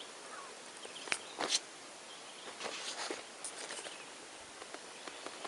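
Quiet open-air ambience: a soft steady hiss with a few brief, faint clicks and knocks scattered through, none loud.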